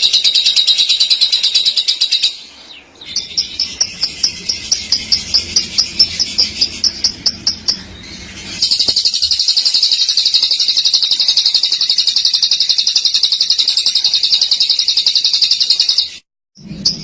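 Lovebird's long 'ngekek' song: a very rapid, high-pitched chattering trill. A run ends about two seconds in, is followed by a slower series of separate chirps, and then a long unbroken trill that cuts off suddenly near the end.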